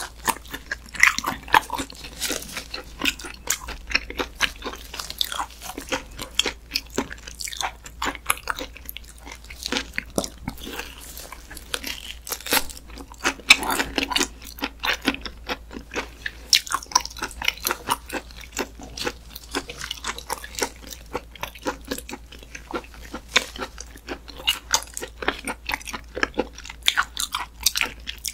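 Close-miked chewing and mouth sounds of a person eating raw muscovy duck meat: an irregular stream of short smacks and clicks.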